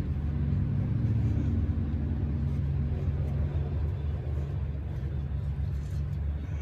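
Steady low rumble with no clear events in it.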